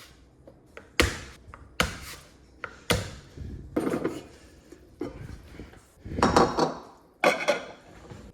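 Garlic cloves being crushed on a cutting board: three sharp knocks about a second apart, then three longer, crackly crushing strokes.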